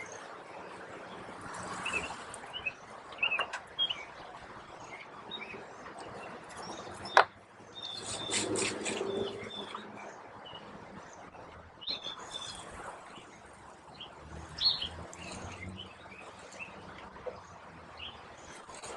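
Small birds chirping outdoors in scattered short calls, with a sharp click about seven seconds in followed by a louder, noisy stretch lasting about a second and a half.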